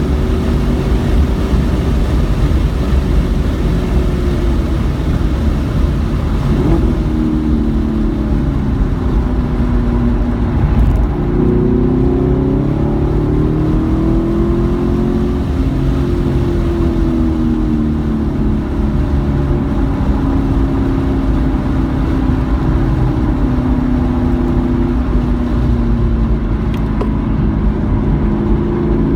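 Car engine driven hard on a race track, its note repeatedly climbing under acceleration and dropping when the driver lifts and shifts, over a steady low rumble.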